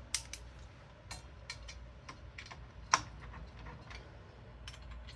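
Irregular small metallic clicks and ticks of a screwdriver turning a CPU heatsink's mounting screws a little at a time, the loudest click about three seconds in.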